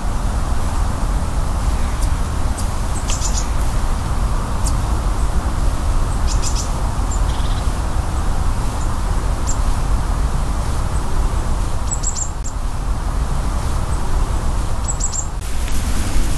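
A small bird chirping in short quick clusters, high-pitched, four or five times, over a steady low rush of wind noise.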